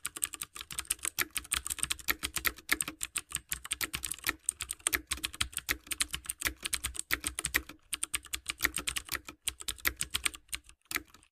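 Typing on a computer keyboard: a rapid, uneven run of keystroke clicks, many per second.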